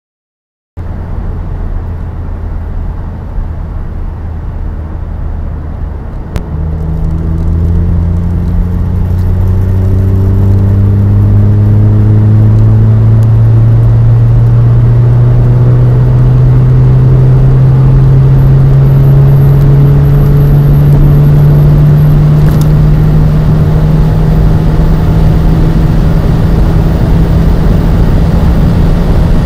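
Turbocharged 2.0 TFSI four-cylinder engine of a modified Audi TT, fitted with an aftermarket downpipe and Bastuck quad exhaust, pulling under load. It gets louder about six seconds in, then its pitch climbs slowly and steadily with no drop for a gear change.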